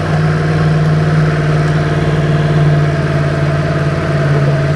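Yamaha MT-10's crossplane inline-four with an Akrapovič muffler, running at a steady note that drops and changes right at the end.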